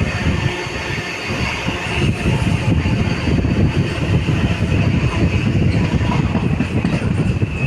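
Train running along the track: a steady, loud rumble and rattle with a thin high ringing tone held throughout.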